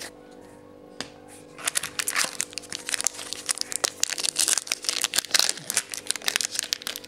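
A trading-card pack's wrapper being torn open and crinkled by hand. After a quiet start broken by a single click, dense irregular crackling begins about a second and a half in and keeps on.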